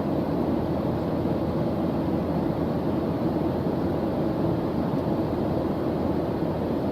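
A steady white-noise background track: an even, unbroken rushing hiss, weighted toward the low end.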